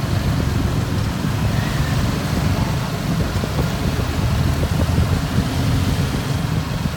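Motorbike under way: engine running with a steady low rumble of wind and road noise.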